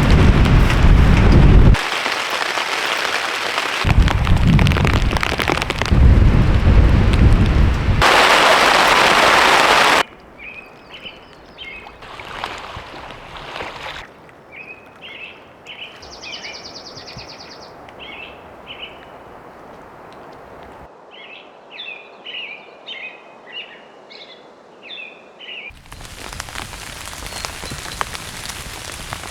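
Heavy storm wind and rain with a deep rumble, loud and in short cut-together stretches, the last one a dense hiss. About ten seconds in it drops to a quiet background with birds chirping in short repeated notes, and near the end steady rain patters on a surface.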